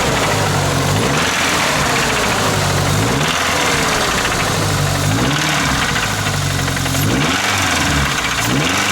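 Truck engine with a knocking problem, running with Lucas Oil Stabilizer in its oil, revved in short throttle blips about five times, dropping back to idle between each.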